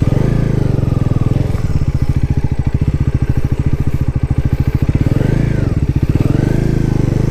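Bajaj Pulsar NS400Z's 373 cc single-cylinder engine running under way at low, steady revs, its firing pulses coming as an even, rapid beat.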